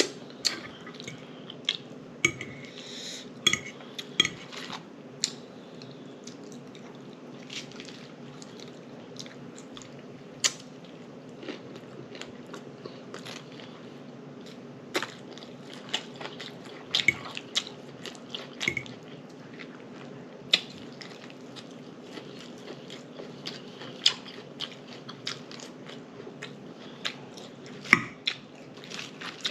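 Close-up chewing and lip smacking while eating taco salad and a chicken burrito, with irregular wet smacks and crunches over a steady low hum.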